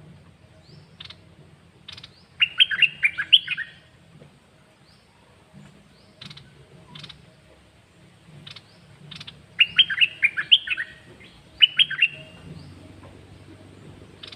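Caged songbird of the kind Thai keepers call 'nok dok taeng', singing: two fast phrases of quick, clear, rapidly repeated notes, one about two seconds in and one about ten seconds in, with single short chirps between them.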